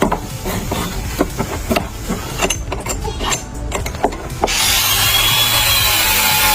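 Workshop tool work: a run of short scrapes and knocks, then a louder, steady power-tool noise starts about four and a half seconds in.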